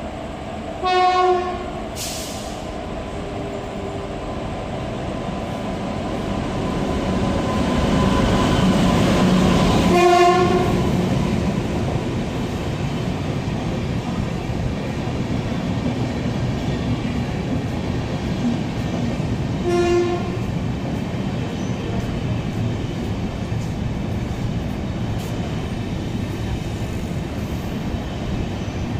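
WAP-7 electric locomotive sounding three short horn blasts, about ten seconds apart, as the Duronto Express runs through the station without stopping. The rumble of the train builds to its loudest around the second blast, then carries on as a steady rumble of coaches rolling past.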